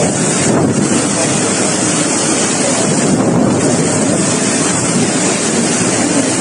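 Loud, steady roar of typhoon-force wind buffeting the microphone.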